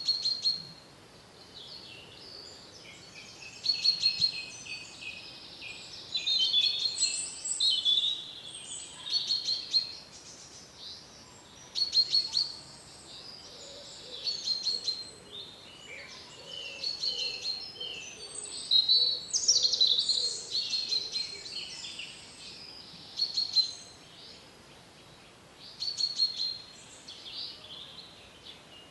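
Songbirds singing short phrases of high chirps and clear notes, one phrase every two to four seconds, over a faint steady background.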